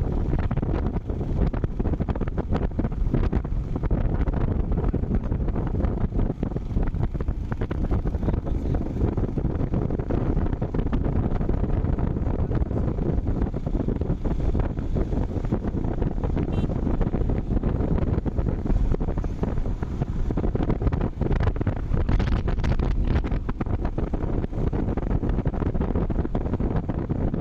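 Wind buffeting the microphone of a camera on a moving motorcycle: a steady, loud rush of air, heaviest in the low end, with no breaks.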